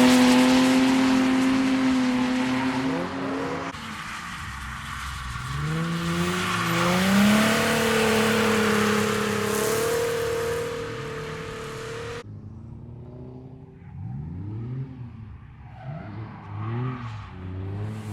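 Drift cars' engines held at high revs over tyre squeal, in passes cut one after another. About twelve seconds in it cuts to a quieter car whose engine revs up and down in short blips.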